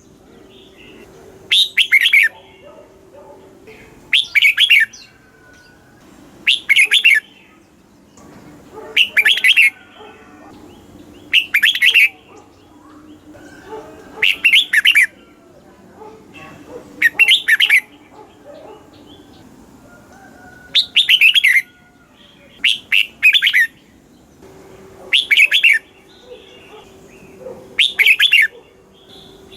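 Red-whiskered bulbul singing, a short, loud, chirpy phrase repeated about every two to three seconds.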